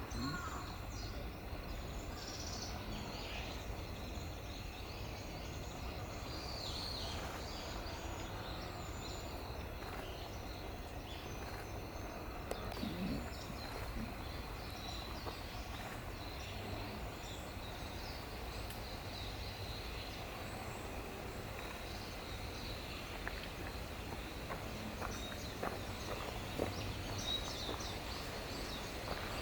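Steady low outdoor background noise with faint, short bird calls scattered through it, a few in the first several seconds and more near the end.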